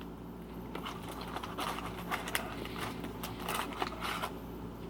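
A person chewing a bacon sandwich close to the microphone: irregular soft clicks and mouth noises from about a second in until near the end, over a faint steady low hum.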